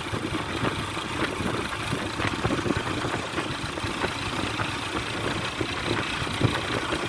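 A motor vehicle's engine running, with many short rattles and knocks over it.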